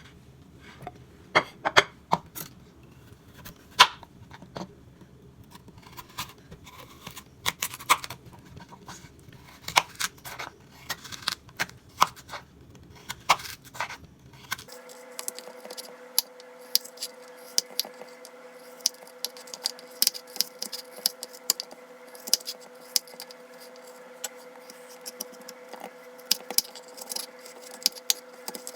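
Small clicks, taps and light clinks of objects being handled, scattered irregularly. About halfway through they become denser and a steady electrical hum comes in beneath them.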